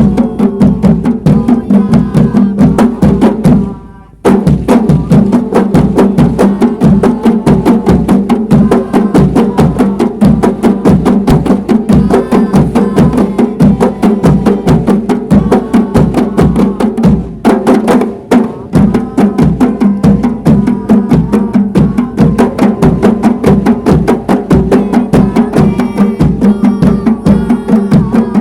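Kompang, Malay hand-struck frame drums, played by a group in a fast, steady, interlocking rhythm. The playing cuts out briefly about four seconds in, then carries on.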